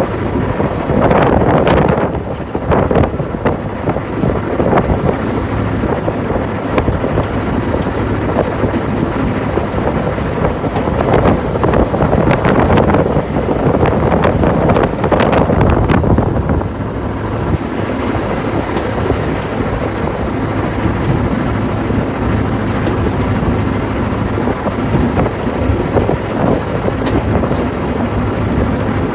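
Sentinel diesel shunting locomotive's Rolls-Royce engine running steadily, heard from inside the cab, with a constant low hum. Louder bursts of clattering noise come between about one and three seconds in and again from about eleven to sixteen seconds in.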